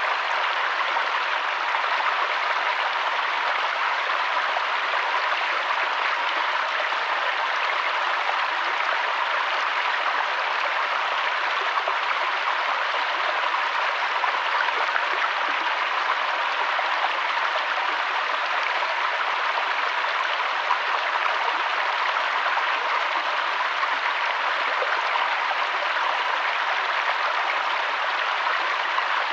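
A mountain waterfall's water rushing steadily, as an even, unbroken hiss with no pauses or changes.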